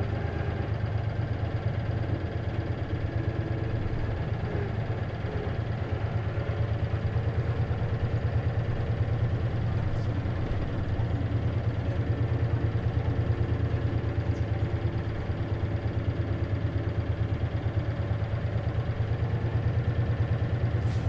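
Isuzu KC-LV380N city bus engine running steadily, heard from inside the passenger cabin, with a deep low hum.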